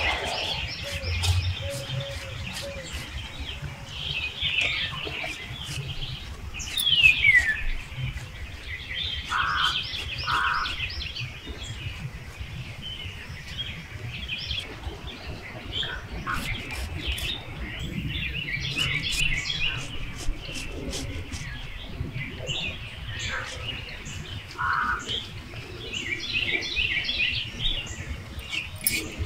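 Birds chirping and calling over one another, with one quick whistle falling in pitch about seven seconds in.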